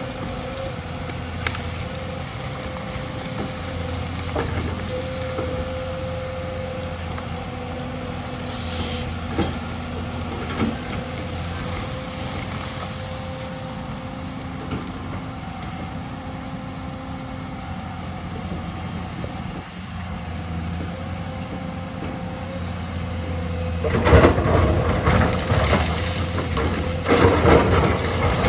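Hyundai excavator's diesel engine running steadily under a held mechanical tone, with a few light knocks. Near the end, loud crunching and rattling of rock and soil as the bucket digs or dumps.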